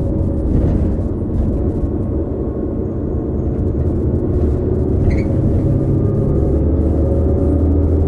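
2018 New Flyer XD40 diesel bus running, its Cummins L9 engine and Allison B3400xFE transmission giving a steady low rumble with faint steady whining tones above it; the whine is the odd sound of the transmission bearings.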